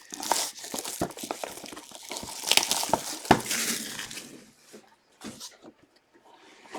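Packaging crinkling and rustling as trading cards are handled and unwrapped, with small clicks and taps. It goes for about four seconds, then mostly stops.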